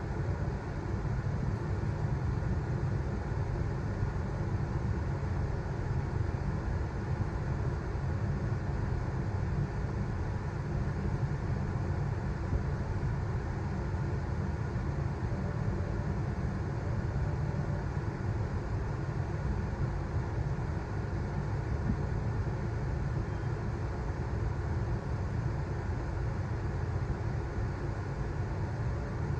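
Steady low rumble inside a Queensland Rail electric suburban train in motion, the wheels and running gear droning evenly with no stops or announcements.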